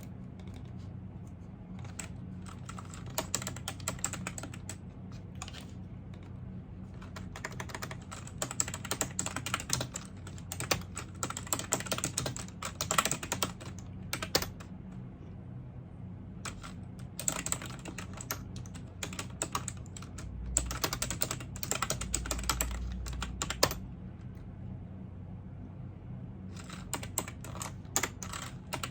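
Typing on a computer keyboard in bursts of rapid key clicks separated by short pauses, over a steady low hum.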